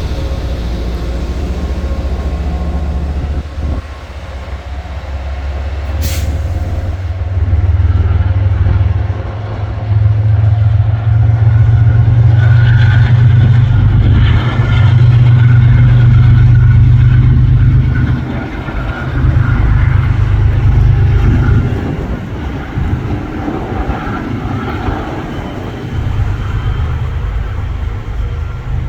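Commuter rail train pulling into a station: its diesel locomotive's deep engine rumble, together with the wheels running on the rails, grows loud and stays loud for about ten seconds, then eases off.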